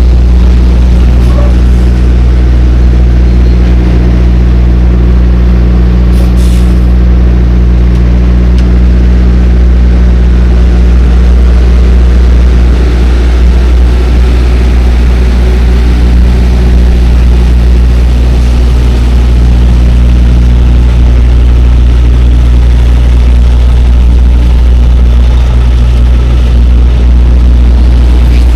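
Semi tractor-trailer's diesel engine running steadily under way, a loud, even low drone with road noise.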